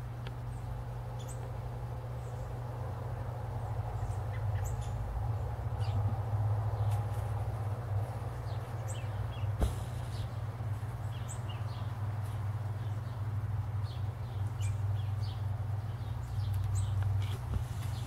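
Small birds chirping now and then, short high chirps scattered throughout, over a steady low rumble. A single sharp click about ten seconds in.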